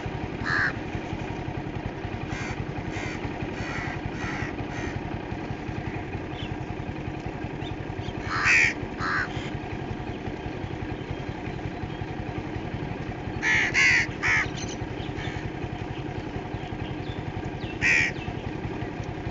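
Short harsh bird calls in scattered groups, the strongest about a third of the way in, near the middle and near the end, over a steady low rumble like a running engine.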